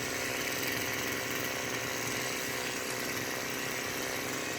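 A small engine of tree-removal equipment running steadily at low volume, with no revving.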